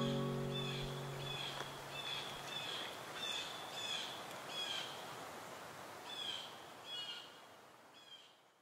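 A bird chirping: a short, high, falling call repeated about every two-thirds of a second over a soft hiss, fading out towards the end.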